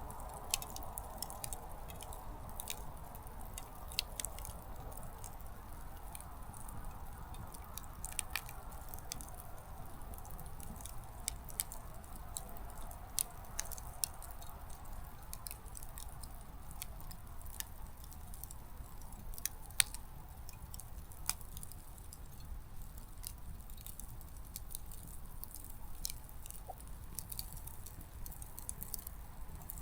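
Small wood fire crackling, with irregular sharp pops from the burning firewood, a few louder than the rest.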